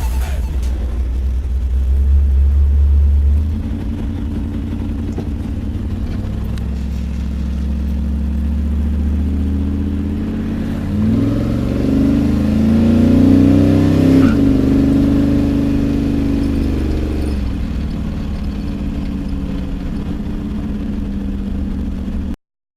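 Car engine idling with a low rumble, revved up about eleven seconds in and held for a few seconds before dropping back to idle; the sound cuts off suddenly near the end.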